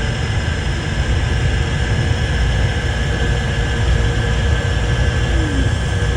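Airport people-mover train cars running at speed between stations, heard from inside the car: a loud, steady low rumble with a faint steady whine over it.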